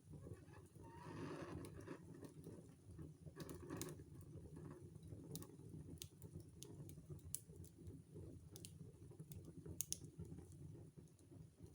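Wood fire burning in a fireplace, crackling with scattered sharp pops over a low, steady rumble, with a brief rush of noise about a second in.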